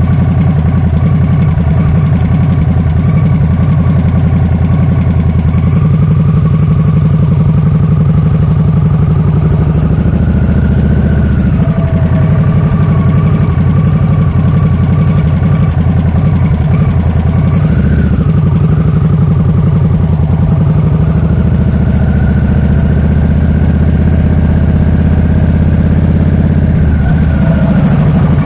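Harley-Davidson Nightster's 975 cc V-twin idling steadily, heard close from a handlebar-mounted camera, with brief small changes in pitch about a third and two thirds of the way through.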